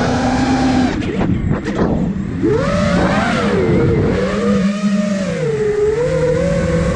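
Five-inch FPV quadcopter's brushless motors and propellers whining, the pitch rising and falling with the throttle. It drops away briefly about a second in, then climbs back about two and a half seconds in.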